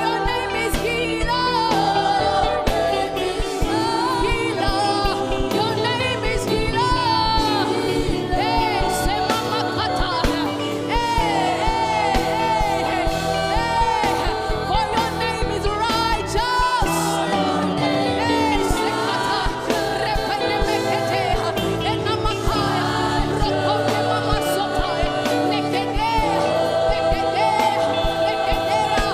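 Live gospel worship music: group and solo voices singing over sustained keyboard chords and a steady beat.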